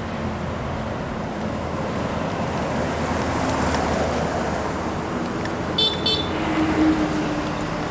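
Passing road traffic with heavy vehicles, engines running steadily over tyre noise. A horn gives two short high-pitched toots about six seconds in.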